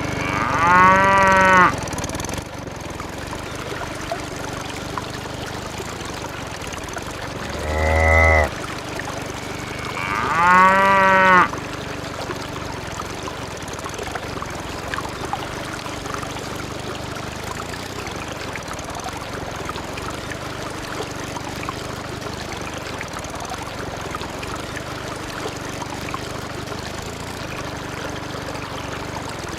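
A cow mooing three times: one call about a second in, then two more close together around eight and ten seconds in, over a steady low background hum.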